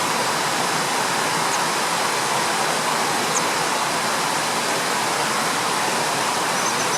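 Steady rushing of flowing stream water, with a few faint, brief high chirps.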